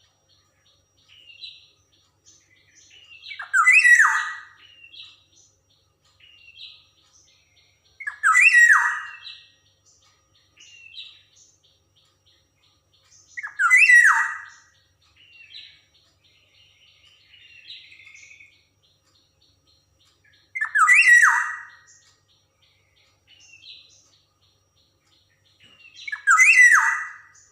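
Black-naped oriole (Javan 'kepodang emas') calling: loud, harsh call phrases of downward-sliding notes repeated about every five seconds, five times, with faint short notes between them.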